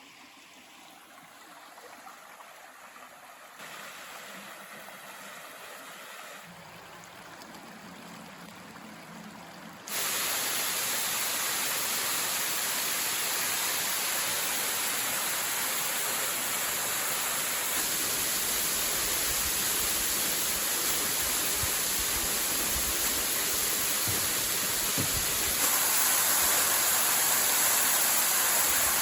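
Steady rushing noise, faint at first and rising in sudden steps, much louder from about ten seconds in.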